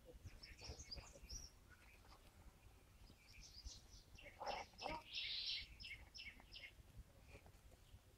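Common myna calling: a loose string of short chirps, whistles and clicks, with a louder, harsher call about five seconds in.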